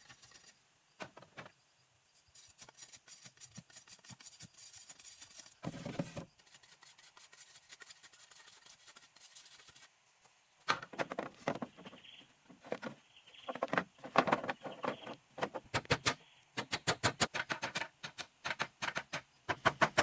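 A rapid series of short knocks and clicks, faint and sparse at first, then dense and loud in irregular clusters from about halfway through.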